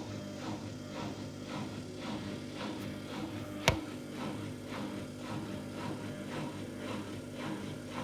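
A Samsung washing machine on its spin cycle with an unbalanced load, running with a steady motor hum and a repeated squeak about twice a second. A single sharp click comes about halfway through. The owner suspects worn drum bearings.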